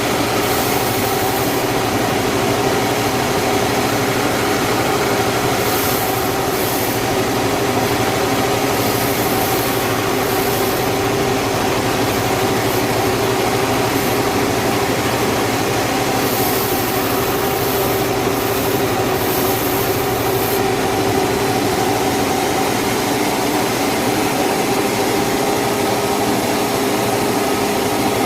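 Sawmill saw machinery running steadily with a constant hum, a high hiss coming and going several times over it.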